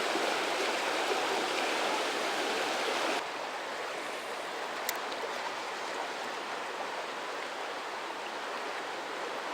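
Running water of a stream, a steady rushing hiss that drops in level suddenly about three seconds in. A single faint click near the middle.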